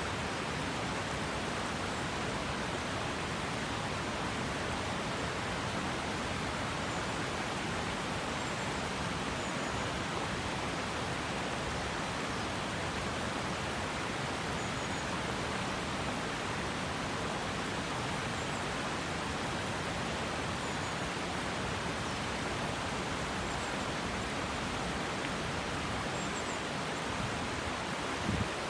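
Okurushibe River flowing: a steady, unbroken rush of water.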